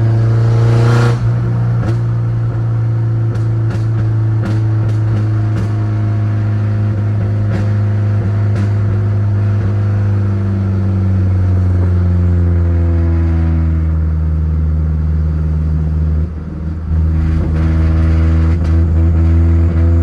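Pickup truck engine running under way, a steady low drone whose pitch eases down slowly, with a short drop in level about sixteen seconds in like a gear change before it picks back up.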